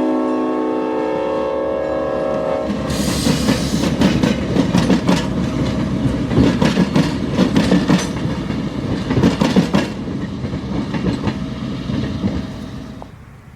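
Leslie RS5T five-chime air horn on a GP38-3 diesel locomotive sounding a loud chord that cuts off about three seconds in. Then the train runs by close: diesel engine rumble and wheels clicking over rail joints, dropping away just before the end.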